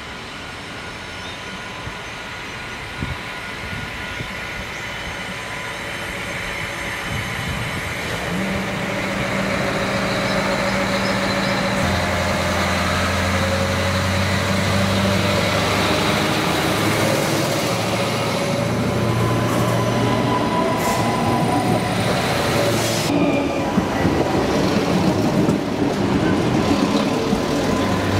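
Adelaide Metro 3000-class diesel-electric railcars approaching and running past close by. The rumble of engines and wheels on rail grows louder over the first ten seconds. A steady low engine hum comes in about eight seconds in, and a higher whine shifts in pitch midway.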